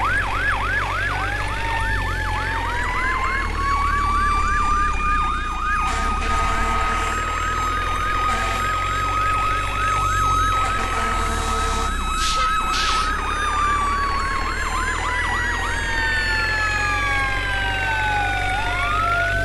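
Emergency vehicle sirens sounding together: a fast yelp warbling about two to three times a second and slower wail tones gliding up and falling away, over a steady low hum. The yelp stops a little past the halfway mark while the wails keep falling.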